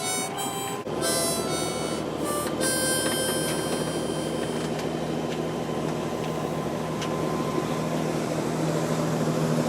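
Harmonica-like music chords for the first couple of seconds, then a steady low drone of a sailboat's inboard engine motoring along, growing slightly louder toward the end.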